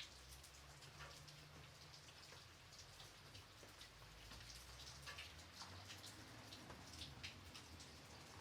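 Gentle light rain, faint, with many separate raindrops ticking irregularly over a steady hiss and a low rumble underneath.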